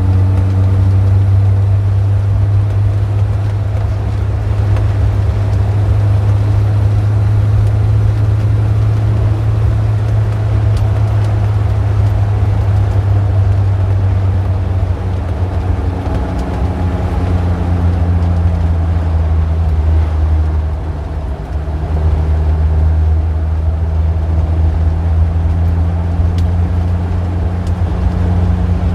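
Street traffic with a steady, loud low engine drone from a motor vehicle close by, plus a softer wash of passing cars. The drone briefly drops away about two-thirds of the way through, then comes back.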